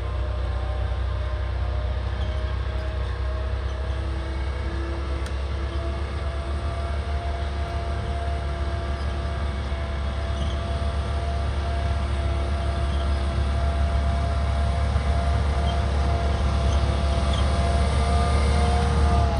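A heavy vehicle's diesel engine running steadily under a deep low rumble, its pitch drifting slightly and growing louder in the last few seconds as it draws nearer or takes more load.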